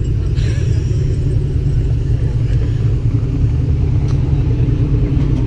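Steady low rumble of Ford Mustangs idling close together in a parking lot, with a faint click about four seconds in.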